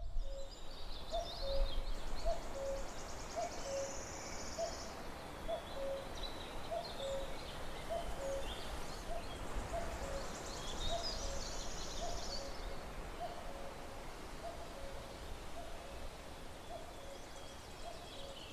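Outdoor wildlife sounds: a short, low two-note call repeats steadily about once a second, with scattered high bird chirps and a couple of buzzy, insect-like trills above it.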